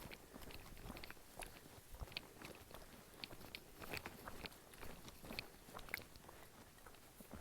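Faint crunching footsteps of a hiker on a trail, with irregular sharp clicks and scrapes a few times a second.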